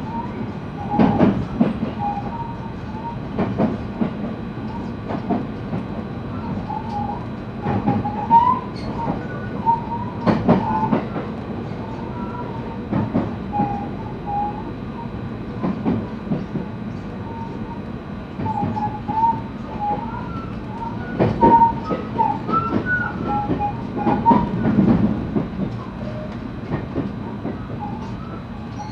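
JR West 223 series electric train running, heard from inside the car: a steady rumble with repeated knocks of the wheels over rail joints, and short, wavering high squeals from the wheels.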